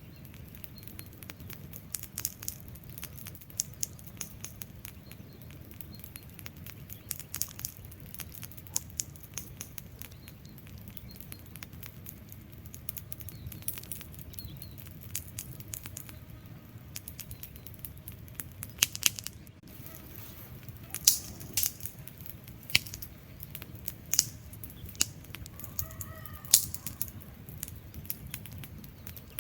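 Wood fire burning with a steady low rustle of flame and irregular sharp crackles and pops from the logs, a few louder pops in the second half. Near the end there is a brief faint pitched chirp.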